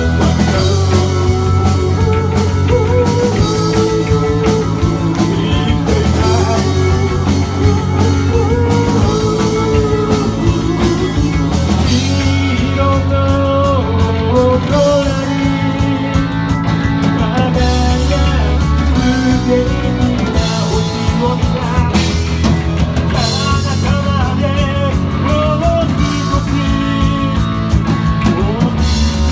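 Live rock band performing: electric guitars, bass and drum kit playing steadily, with a singer's voice.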